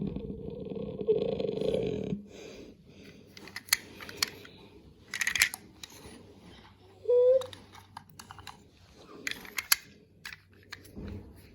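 Scattered light clicks and knocks of toy cars being handled. A steady low hum runs for about the first two seconds, and there is one short rising squeak about seven seconds in.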